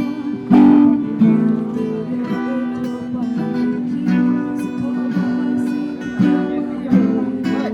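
Music: an acoustic guitar strumming chords, with sharp strokes every half second to a second and the chords ringing between them.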